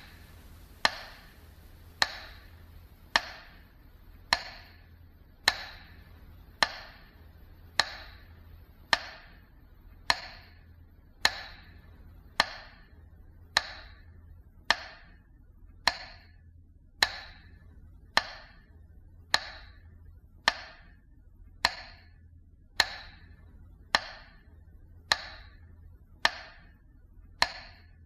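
A metronome beating slowly and evenly, a sharp click about every second, in the manner of the metronome that marks a minute of silence in memory of the dead.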